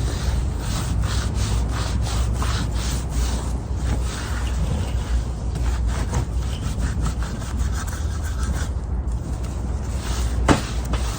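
A damp rag rubbed back and forth over a wooden bench to clean it, a run of quick uneven rubbing strokes over a steady low hum.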